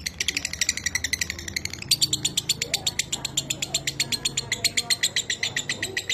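Lovebird's ngekek: an unbroken rattling chatter of rapid, high, short notes, about ten a second.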